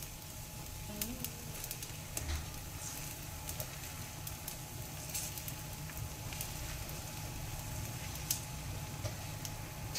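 Dosa and beaten egg sizzling on a hot tawa griddle, with scattered sharp crackles as a steel spoon spreads the egg over the dosa. A low steady hum runs underneath.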